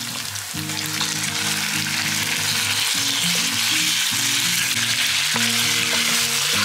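Raw chicken pieces frying in hot oil with onions in a pan, sizzling steadily and growing louder over the first second or so. Soft background music plays underneath.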